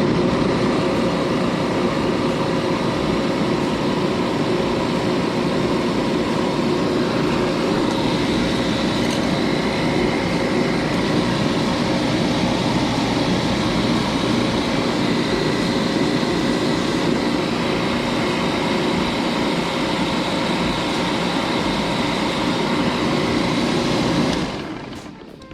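Refrigerant recovery machine running steadily, pumping the system's refrigerant into a recovery tank: an even mechanical hum with a few faint steady whining tones. It fades out about a second before the end.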